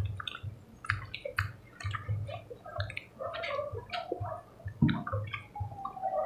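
Wet chewing and lip-smacking of people eating with their hands, in quick, irregular smacks and clicks about two or three a second.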